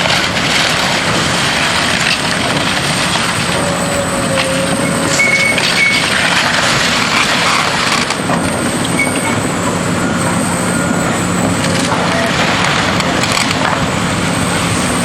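Heavy demolition machinery running while it breaks into the warehouse building: a steady, dense machine-and-debris noise with scattered knocks.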